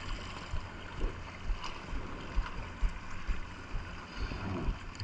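Seawater sloshing and lapping close to the microphone, with irregular low thumps.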